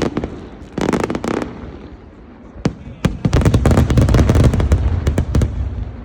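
Aerial fireworks display. A cluster of sharp crackling bangs about a second in and a single bang near the middle lead into a dense run of rapid bangs and crackles over deep booms, easing off near the end.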